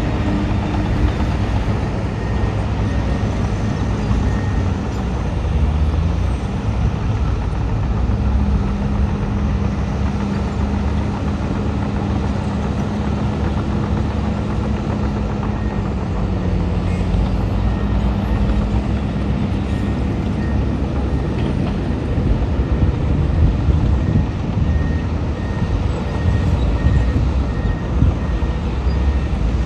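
Heavy diesel earthmoving machinery running continuously, with its engine note shifting slightly midway. A reversing alarm beeps at an even pace from about halfway through.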